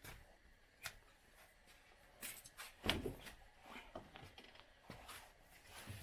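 A few scattered clicks and knocks, as of something being handled, the loudest about three seconds in.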